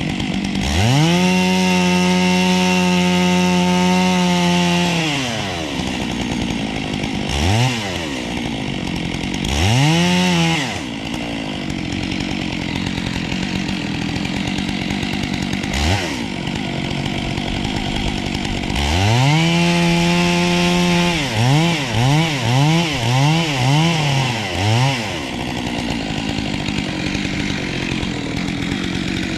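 Gas chainsaw idling, revved to full throttle and held for about four seconds near the start, blipped twice, then held at full throttle again for a couple of seconds past the middle before five quick blips of the throttle and a drop back to idle.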